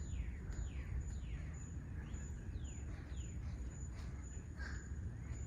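A bird calling in a quick series of short notes that slide down in pitch, about two or three a second, trailing off after about three seconds, over a steady low outdoor rumble.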